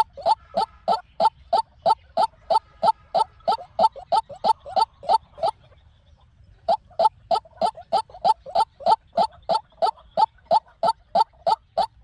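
White-breasted waterhen calling: a long series of short, identical notes repeated about three times a second, breaking off for about a second near the middle before starting again.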